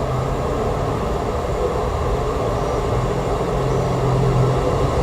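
A train running on the rails, a steady rumble with a low engine hum that comes and goes and is strongest near the end.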